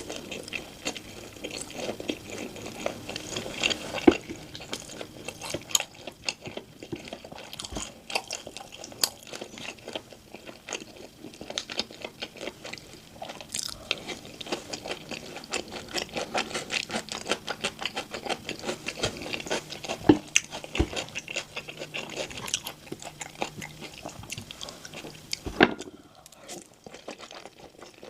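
Close-miked eating sounds: steady chewing and crunching of food, with a few louder, sharp crunches along the way, then quieter chewing near the end.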